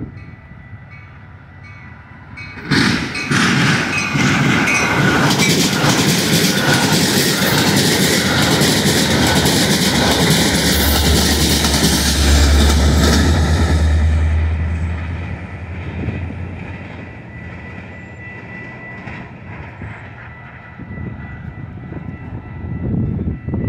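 A Metra commuter train passing close by: wheels clattering over rail joints, starting suddenly about three seconds in, with a deep diesel locomotive engine hum loudest for a few seconds just past the middle as the locomotive goes by, then fading to a lower rumble as the train moves off.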